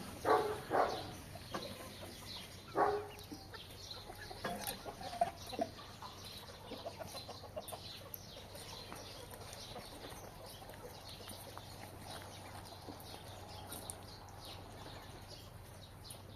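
Domestic chickens clucking: a few loud clucks in the first three seconds and softer ones around five seconds in, then only faint background with small high chirps.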